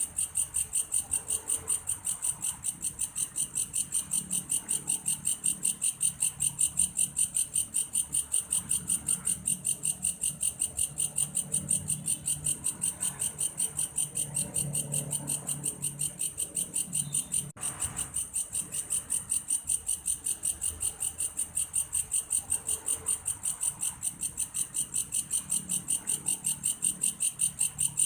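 Belalang kayu grasshopper stridulating: a steady, rapid chirping pulse, about four pulses a second, high-pitched, with one very brief dropout about two-thirds of the way through.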